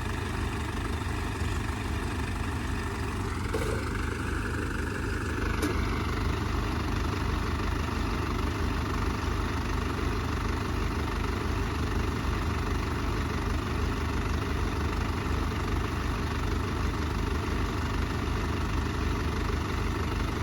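Diesel tractor engine running steadily with an even low throb. A brief rise and fall comes a few seconds in.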